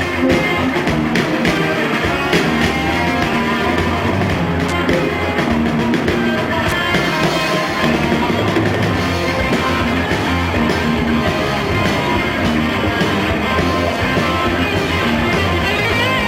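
A live rock band playing an instrumental passage: distorted electric guitars, bass and drums at a loud, steady level.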